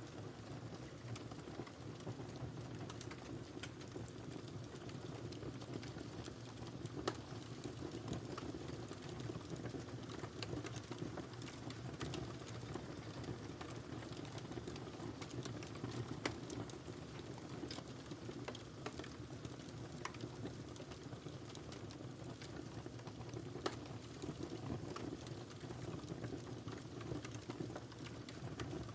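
Wood fire burning in a fireplace: a steady low rumble of flames with irregular crackles and snaps throughout, and a few louder pops.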